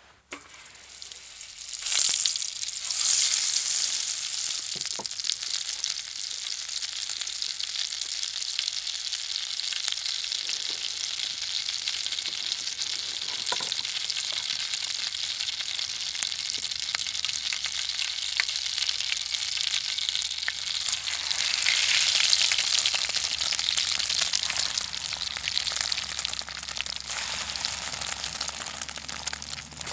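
Food frying in a hot pan: a steady crackling sizzle that starts suddenly, swells about two seconds in and again about twenty-two seconds in.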